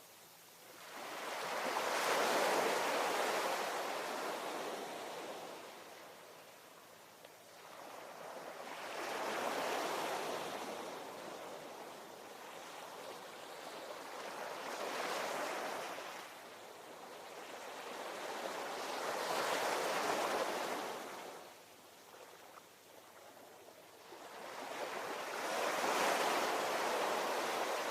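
Ocean waves breaking and washing up the shore, five surges in turn, each swelling over a second or two and slowly fading, about every five to six seconds.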